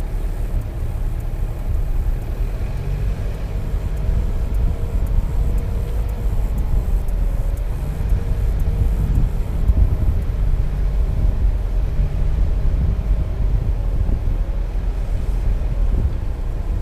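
A motor vehicle driving: a steady low rumble of engine and road noise, with a faint engine hum that wavers slightly in pitch.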